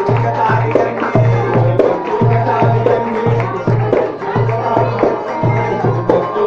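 Live Port Said simsimiyya folk music: a plucked simsimiyya lyre melody over a steady hand-drum beat of about two to three strokes a second.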